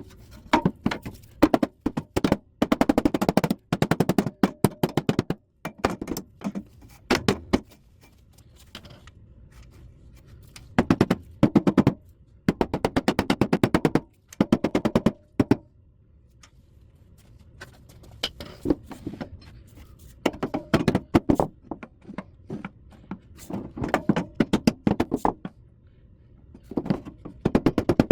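Impact driver driving screws in repeated bursts of rapid clattering, each one to two seconds long, with short pauses between.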